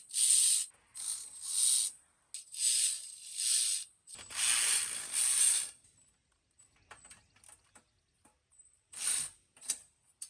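A series of short mechanical clicking-rasping bursts, about six, each lasting up to a second or so, with quiet gaps between, then one more near the end.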